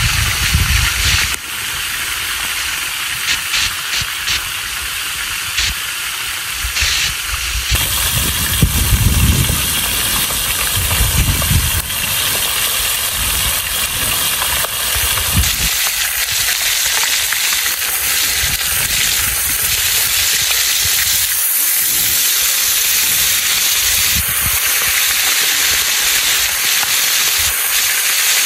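Fish frying in hot oil: a steady sizzling hiss with small crackles, and a few low rumbles of wind on the microphone.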